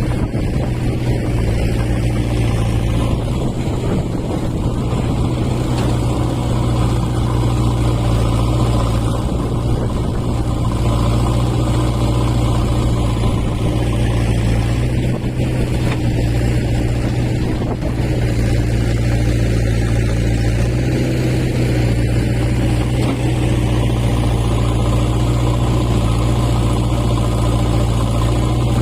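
Eicher 5660 tractor's diesel engine running steadily at an even pitch.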